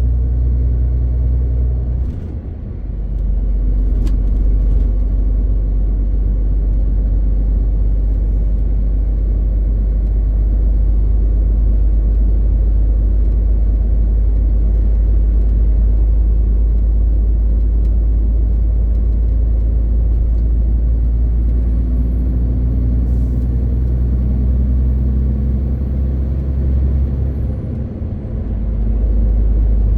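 The six-cylinder diesel engine of a MAN TGX 18.520 tractor unit running under way, a steady deep drone. Its sound dips briefly about two seconds in and again near the end. A faint high whistle is held through the second half.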